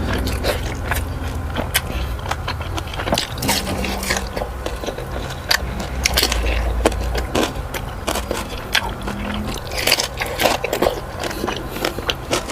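Close-miked biting and chewing of crunchy food: a dense, irregular run of sharp crunches and crackles, over a low steady hum.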